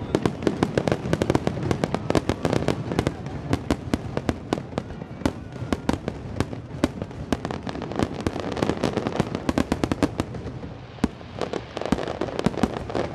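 A rapid barrage of aerial fireworks: shell bursts and crackling reports several times a second over a continuous rumble, thinning briefly about ten seconds in, then picking up again.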